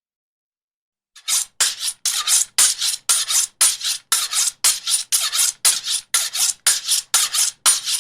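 Rhythmic rasping scrapes, about two to three strokes a second, starting about a second in and running on steadily.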